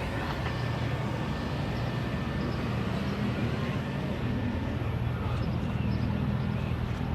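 Low, steady rumble of a car engine running at low speed, growing slightly louder near the end.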